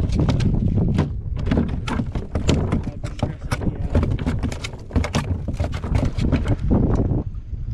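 Rapid, irregular knocking and clattering on a kayak, over a steady low wind rumble on the microphone.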